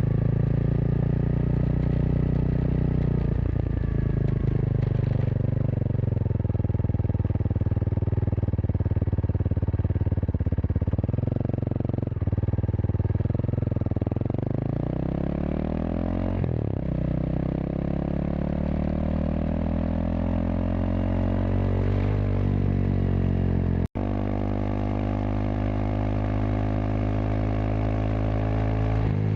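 Kawasaki KLX230SM's single-cylinder engine running through a K-Factory FRC slip-on silencer while riding. It holds a steady pace, then accelerates through two gear changes, each a short dip in pitch followed by a rising climb, and settles into a steady cruise after a split-second break in the sound about three-quarters of the way through.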